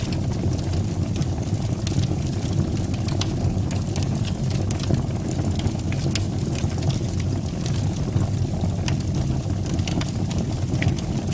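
Fire burning in a fireplace: a steady low rumble with frequent small, sharp crackles and pops scattered throughout.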